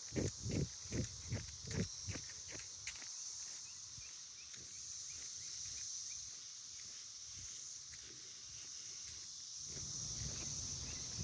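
Footsteps of a person jogging, about three steps a second, fading out about three seconds in. A steady high-pitched buzz of insects runs throughout.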